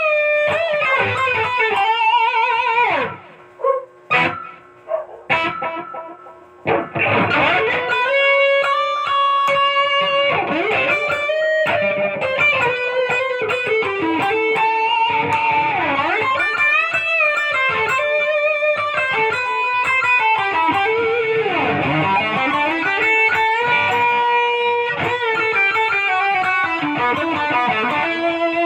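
Electric guitar playing a melodic lead with many bent and sliding notes. A few seconds in it breaks into short, separated stabs with brief gaps, then picks up again into continuous flowing lines.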